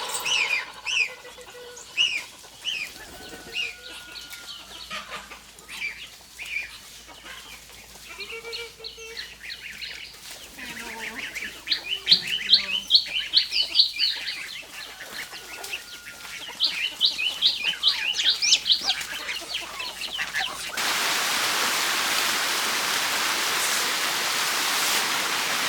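Birds chirping in quick runs of short high notes, mixed with occasional lower poultry calls. Near the end the chirping gives way to a steady, loud, even hiss.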